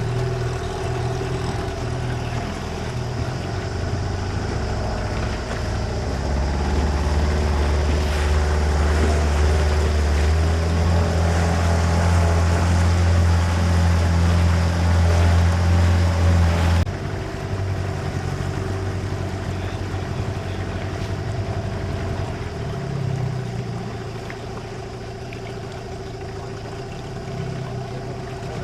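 A boat's motor running steadily under way. It grows louder with a deep hum about a quarter of the way in, then drops back abruptly a little past halfway.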